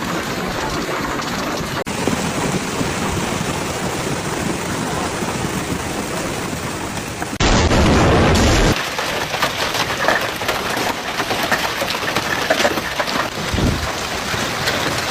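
Storm footage of hail and heavy rain pelting down: a steady, dense hiss of falling ice and water, cut between several clips. About seven seconds in comes a louder, deeper stretch lasting over a second.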